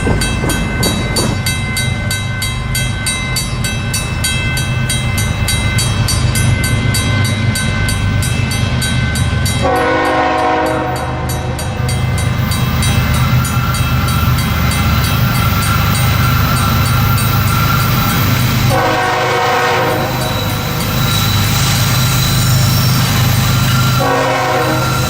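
Diesel freight locomotive running by with a steady low engine rumble, its air horn sounding the grade-crossing signal: two long blasts, then a short one near the end.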